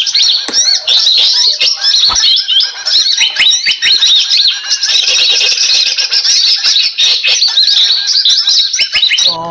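Loud, dense chattering of many small birds: quick overlapping chirps and short whistled notes, from a bird-lure MP3 recording played to draw in bulbuls. The calls cut off abruptly at the very end.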